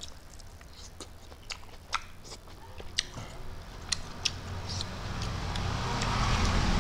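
Close-up eating sounds: wet, crisp mouth clicks and smacks of chewing a mouthful of greens, irregular, about two a second. From about five seconds in a low rumbling noise rises and grows louder toward the end.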